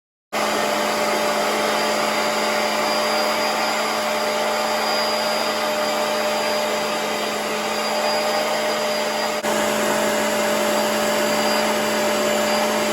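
Electric shop vacuum motor running steadily with a constant whine, starting suddenly and briefly dropping out once about nine seconds in.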